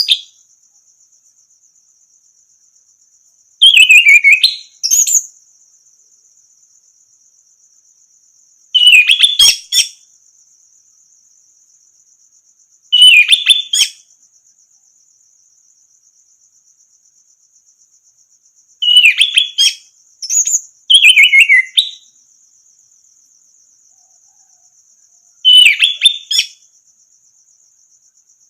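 Orange-headed thrush (anis merah) singing short loud whistled phrases, about five of them with pauses of a few seconds between, some phrases doubled or tripled. A faint steady high buzz runs underneath.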